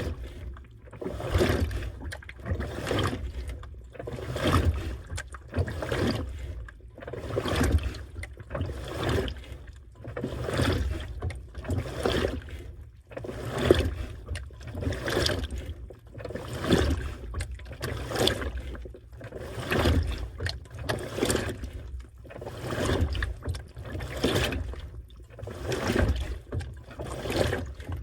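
Washing machine in its wash cycle, the agitator churning water and laundry back and forth in a steady rhythm of about one swishing surge a second.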